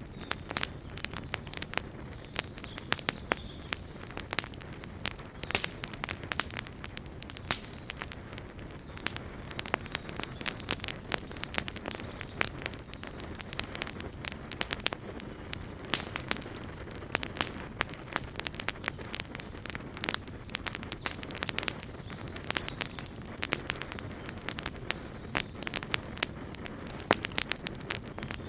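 Wood campfire burning, crackling and popping in dense irregular snaps over a steady low rush of flame.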